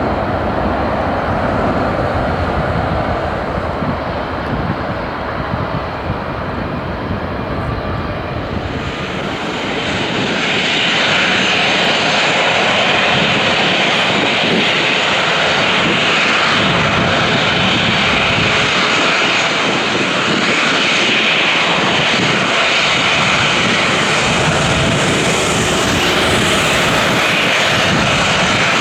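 Jet engines (CFM56-7B turbofans) of a Boeing 737-800 running. A low rumble about ten seconds in turns louder, with a strong steady hiss in the upper range.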